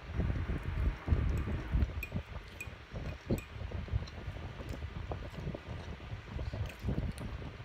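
Close-miked chewing of lasagne, with soft wet mouth sounds, and a few light clinks of a metal fork against a ceramic plate.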